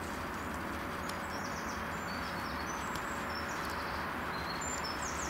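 Small birds chirping in short, high calls over a steady outdoor background hum.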